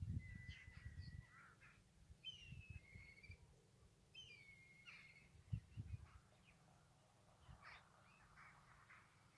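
Birds calling faintly in the open air: a held whistled note, then two notes that fall in pitch, and rougher chattering calls near the end. Low thumps on the microphone come and go underneath.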